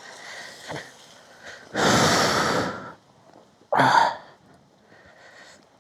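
A person breathing out heavily close to the microphone: a long loud exhale about two seconds in and a shorter one near four seconds.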